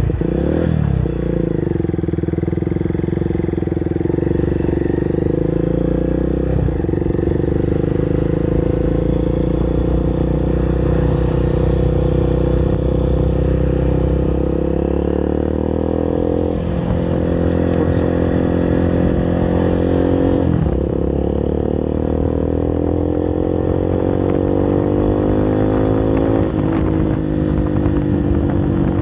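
Bajaj Pulsar 220's single-cylinder engine through an SC Project aftermarket exhaust, ridden: a steady engine note at first, then climbing slowly in pitch and dropping sharply twice, about two-thirds of the way through and again near the end, as the rider shifts up.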